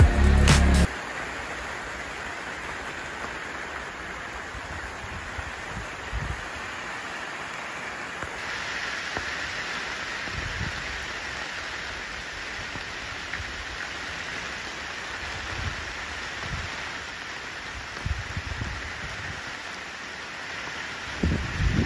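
Steady rain falling on wet pavement, an even hiss that grows a little brighter about eight seconds in, with a few brief low rumbles now and then.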